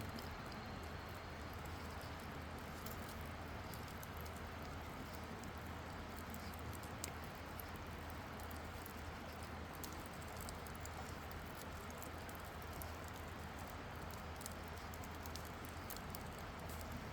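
Wood campfire burning, crackling with frequent small irregular pops and one slightly sharper pop about seven seconds in, over a steady low rumble.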